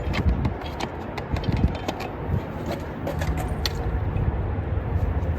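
Scattered small metallic clicks and clinks of bolts and hand tools being handled in a car's engine bay, over a low steady rumble.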